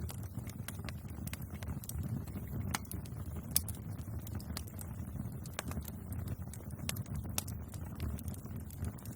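Wood fire burning, with a steady low rumble of flames and scattered sharp crackles and pops from the burning wood, the loudest pop about three and a half seconds in.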